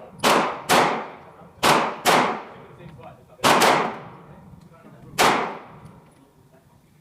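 Gunshots at a shooting range: about seven shots in five seconds, several in quick pairs, each with a short echoing tail, then a lull near the end.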